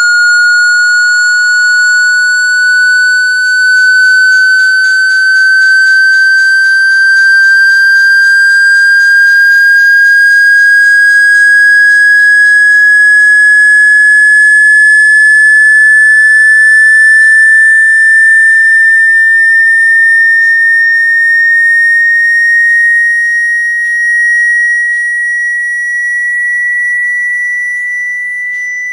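A single loud, pure electronic tone sliding slowly and steadily upward in pitch, a high whistle-like sweep. It is the kind of tone played through a phone's loudspeaker to vibrate water out of it.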